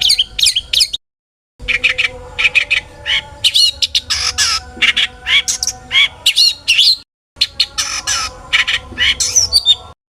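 Long-tailed shrike singing a fast, varied song of chirps, gliding whistles and harsh squawking notes, packed with imitations of other birds. The song breaks off twice briefly and stops just before the end.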